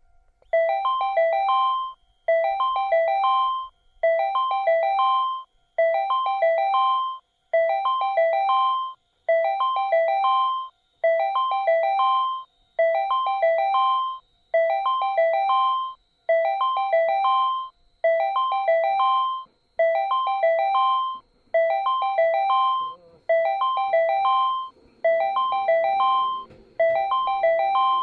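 Railway platform train-approach warning from a Patlite signal unit: a short electronic chime phrase of several notes, repeating about every 1.75 seconds to warn that a train is approaching. A low rumble comes in underneath over the last few seconds.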